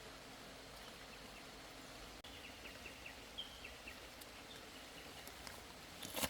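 Faint outdoor ambience: a steady low hiss with a run of short high chirps about two to three and a half seconds in. A brief crackling rustle comes near the end.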